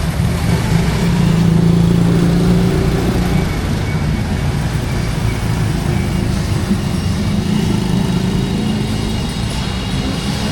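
A motor vehicle engine running close by, with a steady low hum over busy street noise.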